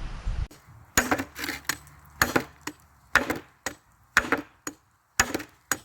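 CRKT Kangee T-Hawk tomahawk chopping into wood with a steady rhythm of about one sharp strike a second. Each strike is followed by a smaller knock.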